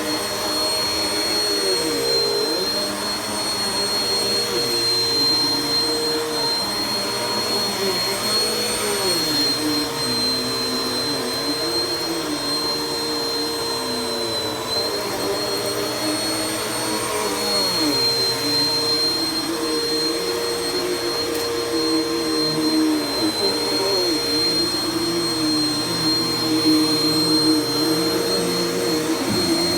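Vacuum cleaner running steadily, with a constant high whine and a lower motor tone that wavers up and down as it is pushed back and forth.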